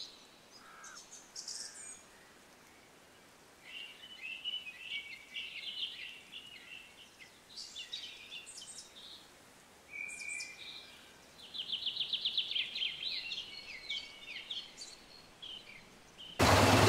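Birds calling: short high chirps and whistles with pauses between, and a fast rattling trill about two thirds of the way through. A much louder sound cuts in abruptly just before the end.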